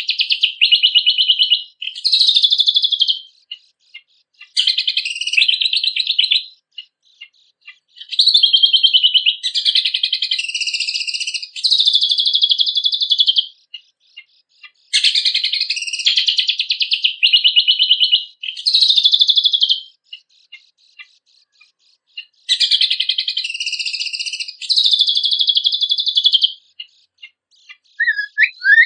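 Cucak kombok (kecial kombok) songbird singing: repeated bursts of fast, high-pitched chattering song, separated by short pauses with a few single chips. Near the end a run of quick rising notes begins.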